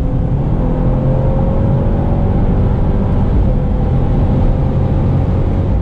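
Mercedes-AMG GT 63 S 4-Door's twin-turbo V8, tuned by performmaster to 740 hp, running steadily under light load with road and tyre noise.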